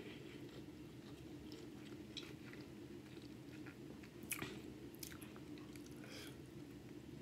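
Close-miked chewing of a mouthful of food, soft and wet, with a few light clicks and a sharper one about four seconds in as a metal spoon scoops rice from the plate.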